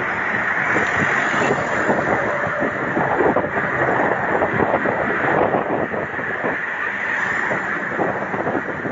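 Steady wind rushing over the microphone of a camera carried on a moving bicycle, with a continuous noise of road and passing traffic underneath.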